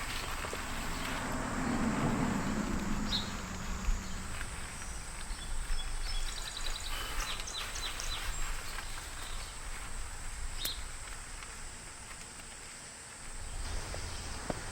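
Outdoor ambience: a steady high-pitched insect drone, a run of short bird chirps in the middle, and some low rustling near the start.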